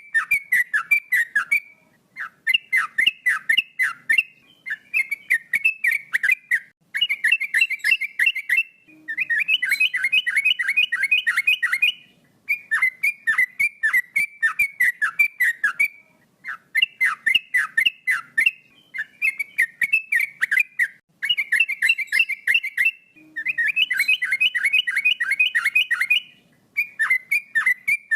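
Male yellow-vented bulbul (trucukan) singing: phrases of quick, fluty notes, one after another, with short pauses between them.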